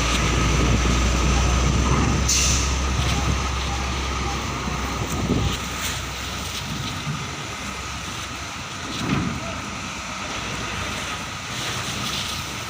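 Heavy Fuso truck's diesel engine rumbling low as it pulls out, the rumble dropping away about five and a half seconds in. A short hiss comes about two seconds in, and a few thumps follow.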